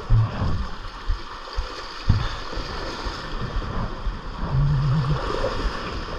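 Sea water rushing and splashing against a sailing boat's hull as it moves through the ocean, with a few low knocks and a brief low hum about four and a half seconds in.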